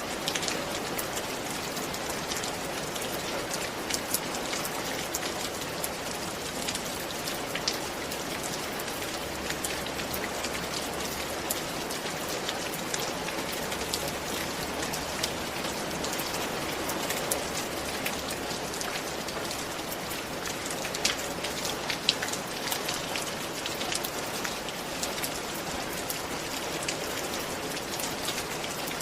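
Steady rain falling, a constant hiss with scattered sharper drop ticks on a hard surface.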